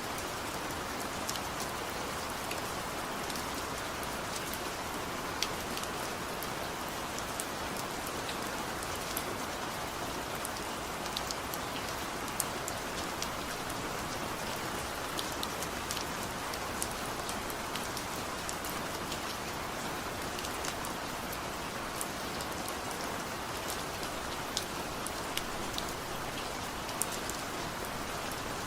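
Steady rain falling on a surface, an even hiss with scattered sharp drop ticks throughout.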